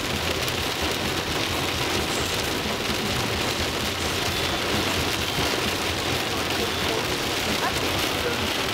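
Heavy rain on a moving car, heard from inside the cabin: a steady wash of rain on the roof and windshield, mixed with the noise of driving on the wet road.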